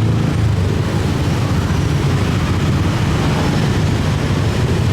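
Steady, loud low rumble of idling engines, motorbikes massed at a ferry landing waiting to board.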